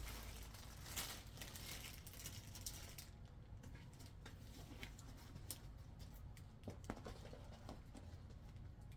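A rolled diamond-painting canvas being unrolled and handled, with soft rustling and crinkling for about three seconds, then fainter scattered taps and rustles.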